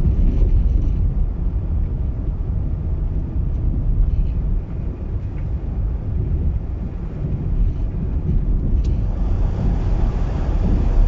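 Car on the move: a steady low road and engine rumble. A short click comes near the end, and after it a wind hiss grows.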